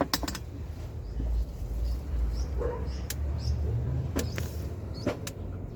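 A few sharp metallic clicks and knocks of hands and tools working on an engine, over a low steady rumble.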